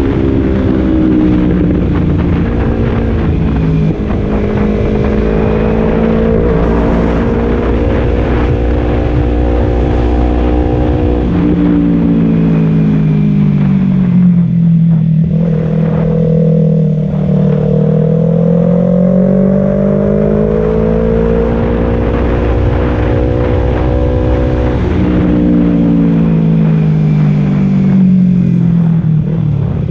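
Kawasaki Z250 parallel-twin engine running through a Leovince Cobra aftermarket exhaust, its note rising and falling as the engine speed changes, with a sudden drop in pitch about eleven seconds in.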